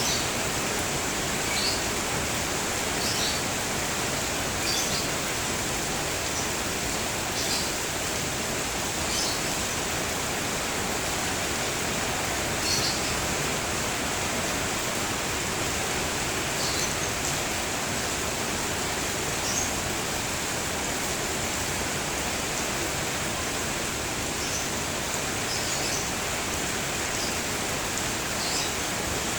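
Steady rain falling, with short, high bird chirps every few seconds.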